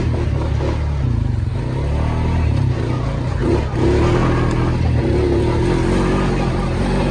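ATV engine running steadily under way, easing off briefly about three and a half seconds in, then pulling again.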